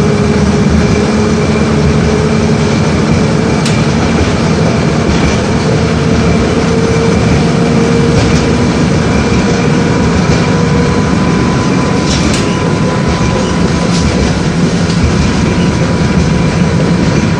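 LVS-86K tram running along the rails, heard from inside the car: a steady rumble of wheels on track with a faint motor whine that rises a little in pitch and then fades, and a few sharp clicks.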